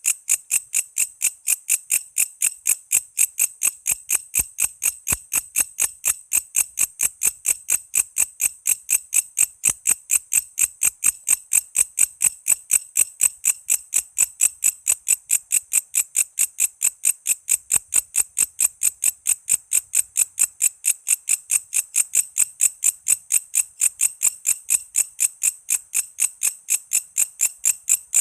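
Walang kece insect calling, a steady train of rapid, evenly spaced high chirps repeated several times a second without a break.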